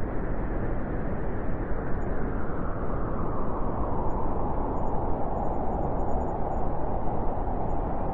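Wind blowing steadily, a dense rushing noise that grows a little brighter after about three seconds.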